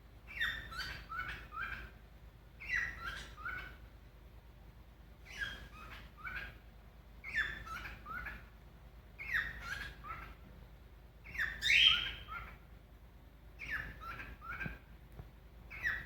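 Cockatiel singing: a short phrase of several quick, falling whistled notes repeated about every two seconds. The loudest phrase comes about twelve seconds in.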